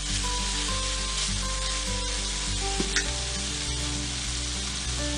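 Diced potatoes, mushrooms and onions sizzling in hot oil in a stainless steel frying pan, stirred with a spatula at first, then left to fry.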